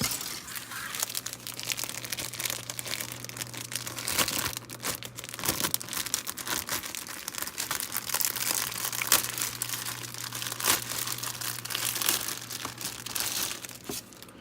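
Crinkling plastic bag: a bagged plastic model-kit parts tree is handled and opened, giving dense, irregular crackling.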